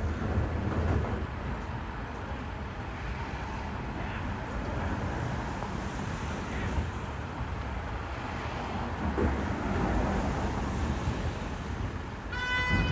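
Steady rumble of vehicle traffic, with a short pitched tone of about half a second near the end.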